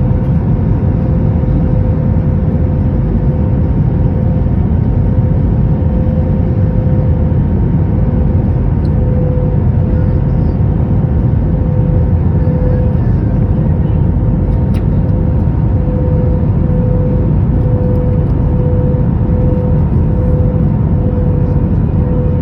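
Airbus A321 airliner cabin noise in flight: a loud, steady rumble of engines and airflow with a constant hum running through it.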